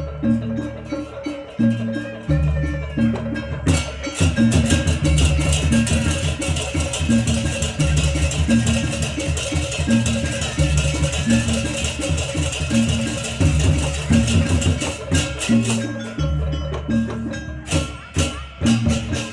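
Javanese barongan gamelan music: drums and struck metal and wooden percussion playing a fast, repeating rhythm over a held tone. It grows fuller and louder about four seconds in and thins out briefly twice near the end.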